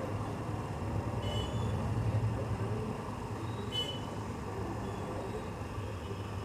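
Two short, high chirps from lovebirds, one about a second in and one near the four-second mark, over a steady low rumble.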